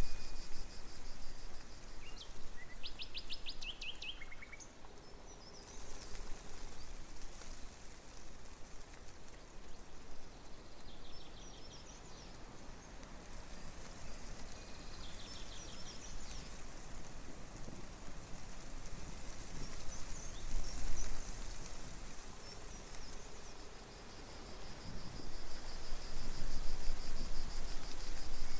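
Outdoor ambience: insects chirping in a steady fast pulse and birds calling, including a quick trill a few seconds in, over a constant background hiss.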